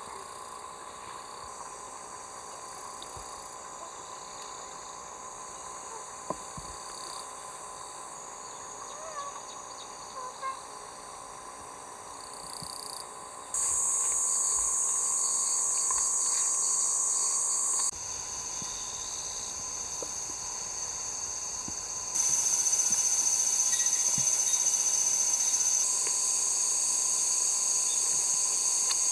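A steady, high-pitched chorus of summer insects with a few faint clicks. The chorus jumps suddenly louder and quieter several times.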